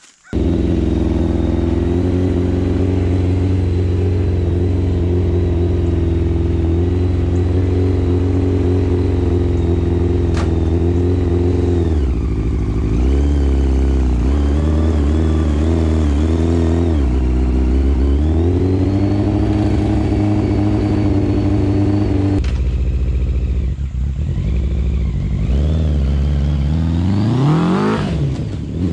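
Honda CBR600 inline-four motorcycle engine driving a reverse trike. The pitch holds steady at first, then rises and falls as the throttle is worked, with a quick climb in revs near the end.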